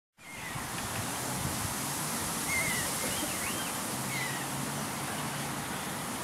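A handful of short, high bird chirps over a steady outdoor background hiss.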